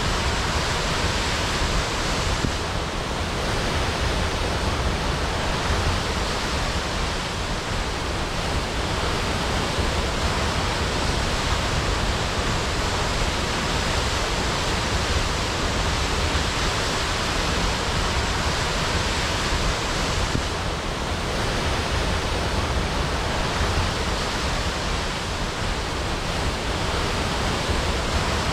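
Waterfall crashing, a steady full rushing roar of falling water with no breaks.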